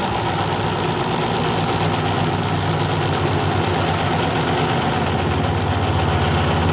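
A motor or engine running steadily.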